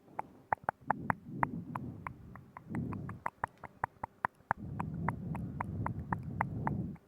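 Close-up ASMR mouth sounds on a binaural microphone: rapid wet clicks of tongue and lips, about five a second, over stretches of low rumbling.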